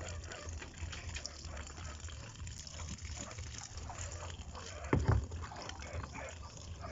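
Water running into a washing machine tub as it is filled for a wash load. There is a single short thump about five seconds in.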